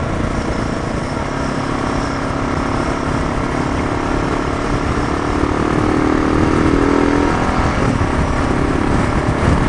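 Motorcycle engine running under way, with heavy wind rush. The engine note climbs gradually for several seconds, then drops away about three-quarters of the way through.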